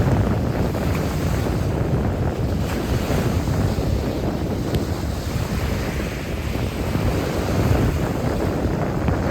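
Strong wind blowing hard across the microphone, a steady loud rush with heavy low buffeting, cut off abruptly at the end.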